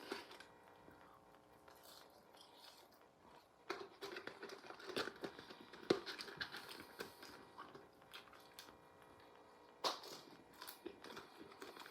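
A person eating, chewing food with small crackles and rustles of wrapper handling that start about four seconds in, over a faint steady hum.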